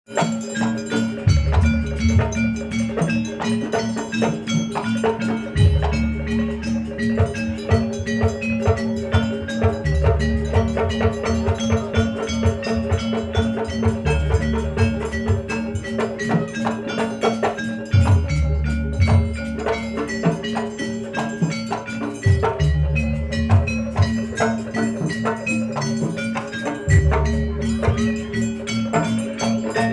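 Javanese gamelan-style music: fast repeating metallophone notes over steady held tones, with low drum strokes coming in and out in phrases of a few seconds.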